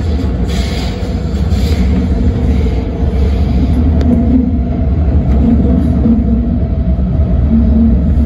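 MTR Tung Chung Line CAF-built train running at speed through a tunnel, heard from inside the car: a loud steady low rumble with a faint hum above it.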